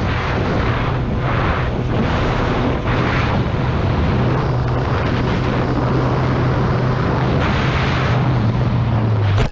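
Motorcycle engine running at a steady speed under heavy wind rush, cutting off suddenly at the end.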